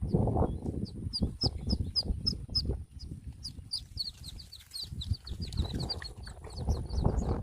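Ducklings peeping: a run of short, high, downward-falling peeps that quickens from about four seconds in, over a louder uneven low rumbling noise.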